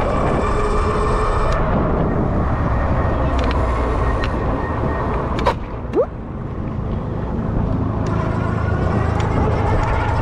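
Electric bike motor whining under way, with wind rushing over the microphone. About halfway through there are a sharp click and a quick rising chirp, and after them the motor whine climbs in pitch as the bike speeds up.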